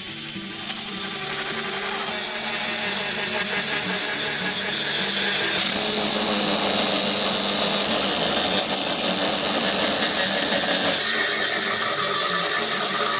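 A power tool running continuously on steel, its tone shifting a few times as the work changes.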